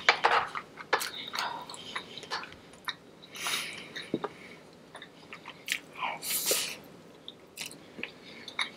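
A person chewing and biting food up close to the microphone, with irregular wet mouth clicks and smacks.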